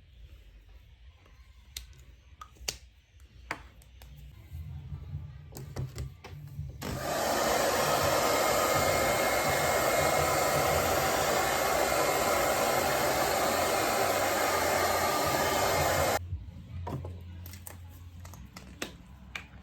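A small electric motor appliance runs steadily for about nine seconds, switching on suddenly and cutting off suddenly, with a few light knocks before and after.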